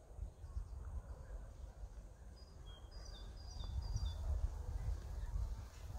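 A small bird gives a quick series of short, high chirps about halfway through, over a steady low rumble of outdoor noise.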